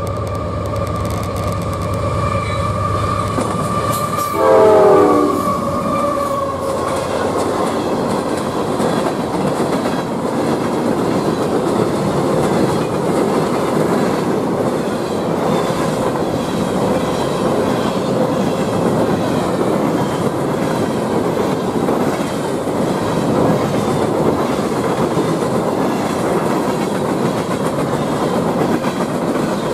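A CSX GE diesel locomotive blows its horn as it approaches. About four to five seconds in, the horn drops sharply in pitch as the engine passes at its loudest, then cuts off. The steady rumble and clickety-clack of a long string of empty coal hopper cars rolling by follows.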